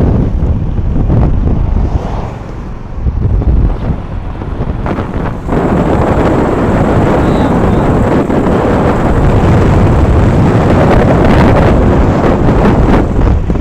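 Wind buffeting the microphone in loud, heavy gusts, with surf underneath; it eases for a few seconds and then grows into a steadier, fuller roar about five seconds in.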